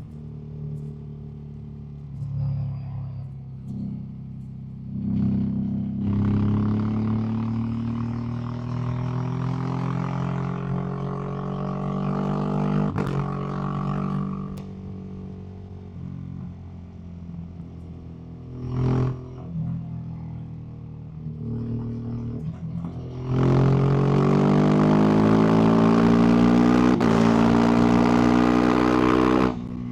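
Ducati SuperSport S 937 cc L-twin engine through a Termignoni aftermarket exhaust, heard while riding. The revs rise as it accelerates about five seconds in, ease off, and blip briefly midway. From about three-quarters of the way through it pulls hard at its loudest, pitch climbing, then the throttle cuts off sharply just before the end.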